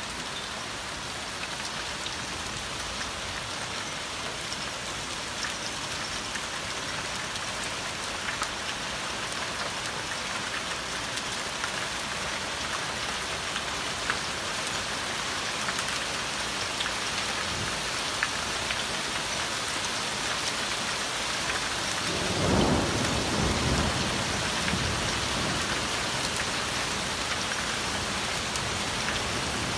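Heavy rain pouring steadily, growing slightly louder, with a brief low rumble about three-quarters of the way through.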